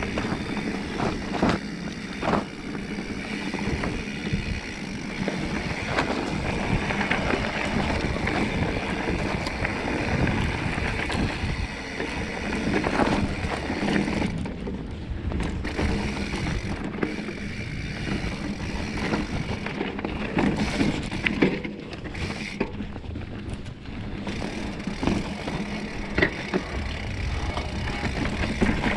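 Mountain bike descending a rocky trail: tyres rolling and crunching over loose stone, with the bike clattering and knocking over rocks throughout.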